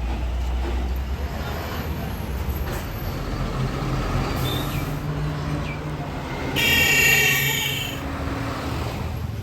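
Road traffic with heavy vehicle engines running steadily, and a vehicle horn sounding once for over a second about two-thirds of the way through.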